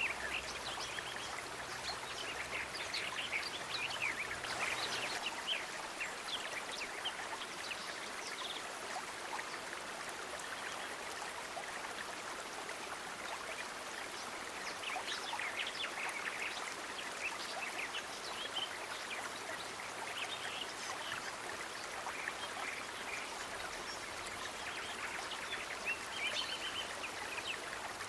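Nature ambience: steady rushing of flowing water, like a stream, with many short high animal chirps scattered throughout.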